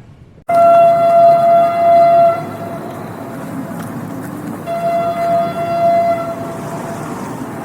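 Train horn sounding one steady note: a loud blast of about two seconds that starts abruptly, then a second, quieter blast a couple of seconds later over the rumble of the train.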